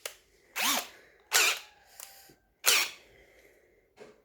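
Brushless cordless drill run in three short bursts of about a third of a second each, its motor pitch rising and falling in each blip.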